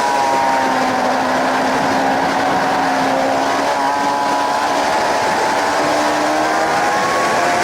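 Suzuki GSX-R 750's inline-four engine heard onboard at track speed over a loud wind rush. The engine note falls over the first few seconds, then climbs again from about five seconds in.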